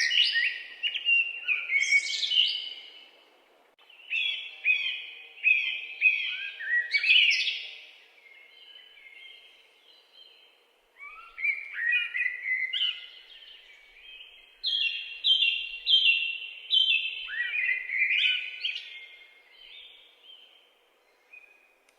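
Songbirds singing: phrases of quick, repeated down-slurred notes, broken by short pauses between phrases.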